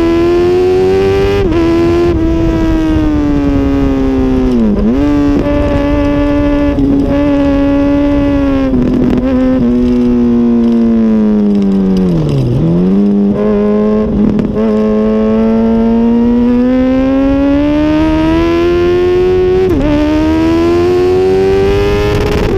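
2006 Honda CBR1000RR's inline-four engine running hard at high revs, its pitch dropping sharply twice under braking and downshifts, about 5 s and 12 s in, then rising steadily as it accelerates out.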